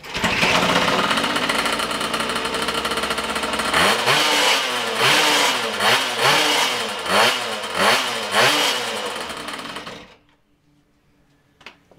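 Home-built two-stroke motorbike engine on one of its first runs: it runs steadily, is blipped up and down about seven times in quick succession, then dies away and stops about ten seconds in.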